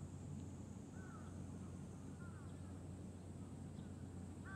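Outdoor ambience: a bird calling a few times with short, falling calls, the clearest near the end, over a steady low rumble.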